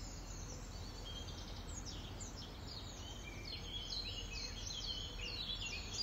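Small birds chirping: many short, quick, downward chirps, starting about a second and a half in and growing busier toward the end, over a steady low background rumble.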